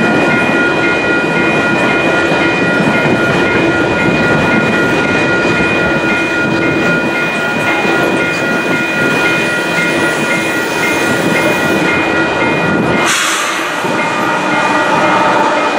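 Freight train of coal hopper cars rolling past on jointed rail: a steady heavy rumble and rattle with a thin high-pitched ringing over it. About thirteen seconds in there is a short hiss, and the rear pusher, a GE AC4400CW diesel locomotive, passes with its engine note taking over.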